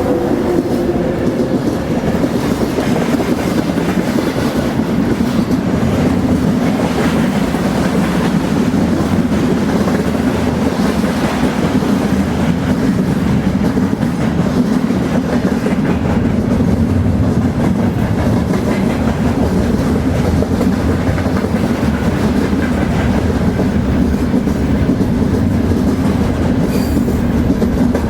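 Train cars rolling steadily along the track, a continuous low rumble with the clickety-clack of wheels over rail joints.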